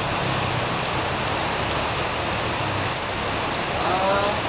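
Heavy rain pouring down steadily on surfaces. A short pitched call sounds briefly about four seconds in.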